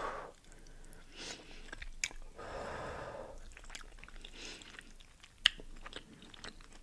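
Close-miked chewing of a pig's-feet boil with ramen: wet smacks and small clicks, a longer noisy sound about halfway through, and one sharp click about five and a half seconds in.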